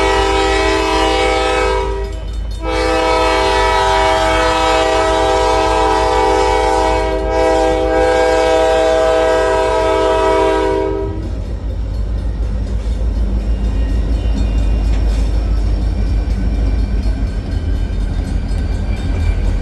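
Diesel locomotive's multi-note air horn sounding for a crossing: a blast of about two seconds, a brief break, then one long blast of about eight seconds. After the horn stops the train runs past with a steady low rumble.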